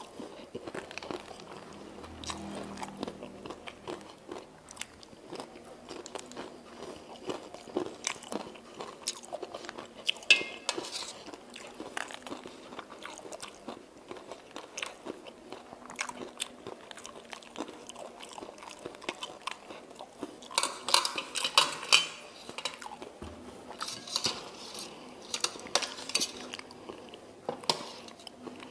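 Close-miked chewing of mie ayam (chicken noodles), with many small wet mouth clicks. The spoon and chopsticks now and then click and scrape on the steel tray.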